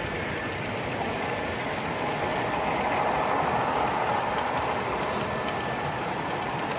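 Model train running on a show layout's track: a steady rolling hum that swells a little in the middle as it passes.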